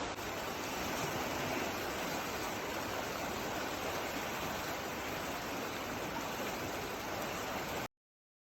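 Steady rush of flowing water, cutting off suddenly near the end.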